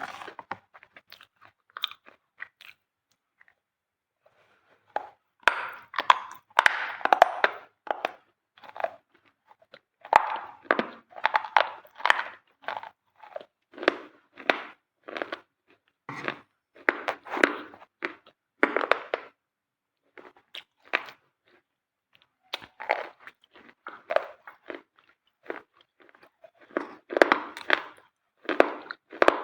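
Close-up crunching of a dry white material: sharp, gritty crunches in quick clusters, broken by a couple of short pauses.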